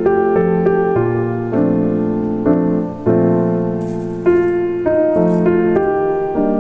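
Calm solo piano background music, with single notes and chords played at an unhurried, even pace.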